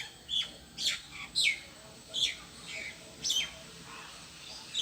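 A bird calling in short, high chirps, each falling quickly in pitch, repeated at uneven intervals of about one or two a second.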